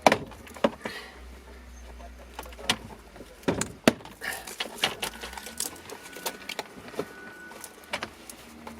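Plastic retaining clips of a 2016 Chevy Trax interior door panel popping loose as the panel is pried off the door: a string of sharp clicks and snaps at irregular intervals.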